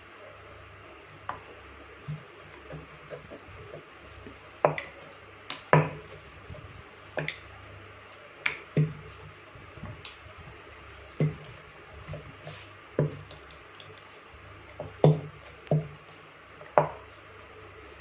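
Irregular sharp clicks and light taps, about fifteen, as hands press, pinch and pleat momo dough wrappers around the filling and set them on a plate or board.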